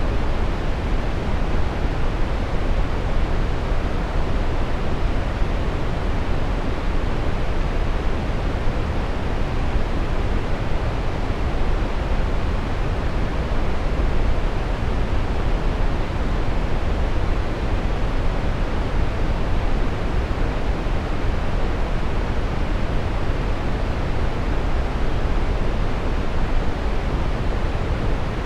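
Steady brown noise: an even, deep rushing hiss with most of its weight in the low end and little treble, unchanging throughout.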